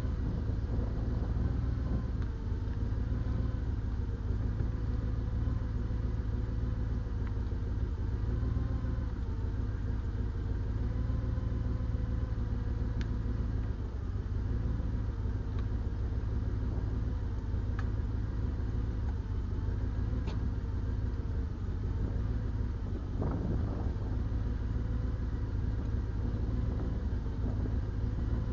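Heavy diesel engine running steadily at a constant speed, with a deep rumble and a faint, slightly wavering whine above it.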